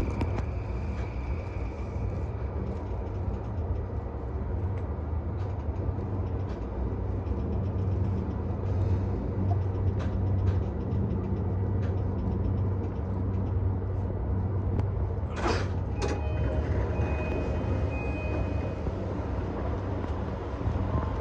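JR East E235-1000 series electric train running, heard from on board: a steady low rumble with light clicks from the wheels, and a short burst of noise about fifteen seconds in.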